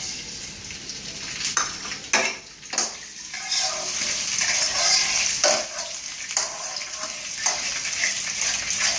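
Chopped vegetables sizzling in hot oil in a frying pan, with a spatula knocking and scraping against the pan about six times as they are stirred.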